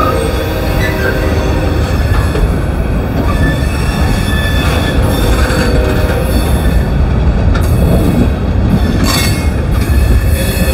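Freight train's covered coil-steel cars rolling past at close range: a loud, steady rumble of steel wheels on rail with thin wheel squeal over it. About nine seconds in comes a brief, sharper burst of high-pitched noise.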